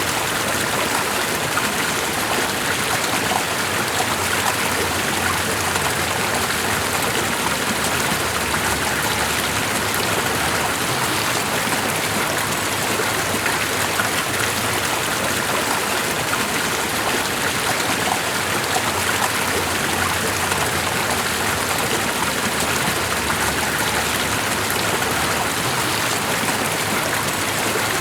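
A stream of running water rushing and babbling steadily, without change.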